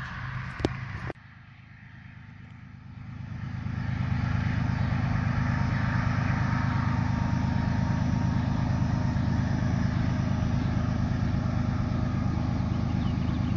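Approaching train rumbling, building up over a couple of seconds and then holding a loud, steady low rumble. In the first second there is a low hum with a few sharp clicks, which ends abruptly about a second in.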